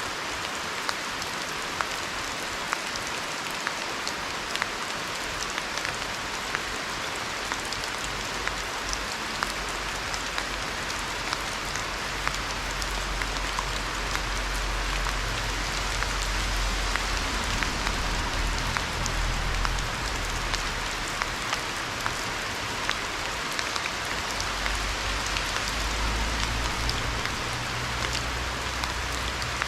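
Steady rain hissing down, with scattered sharp drips ticking throughout. A low rumble builds in about a third of the way through and swells again near the end.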